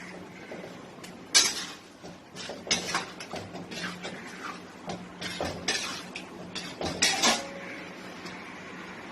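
A metal utensil knocking and scraping against a cooking pan while the chicken is stirred, a run of irregular clatters from about a second and a half in to about seven and a half seconds, the loudest knock coming first.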